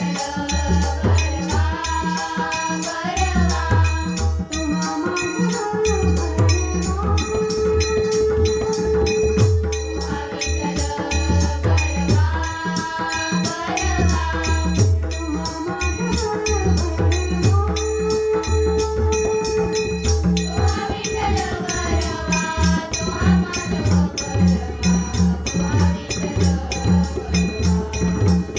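Marathi devotional bhajan music from a women's bhajan group: a bending melody with long held notes over a low drum beat and fast, steady jingling of small hand cymbals.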